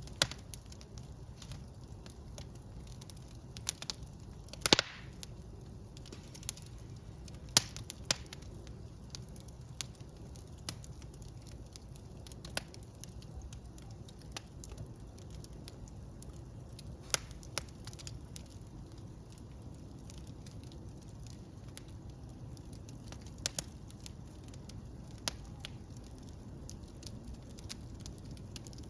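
Fire burning in a fireplace: a steady low rush with sharp, irregular crackles and pops. The loudest pop comes about five seconds in.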